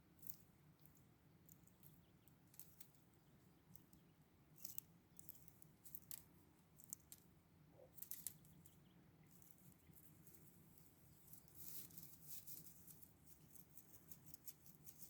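Faint, intermittent rustling and soft crackling close by, thickest for a couple of seconds after about eleven and a half seconds in.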